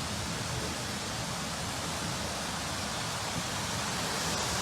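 Steady rushing noise of flowing floodwater, with no breaks or single impacts.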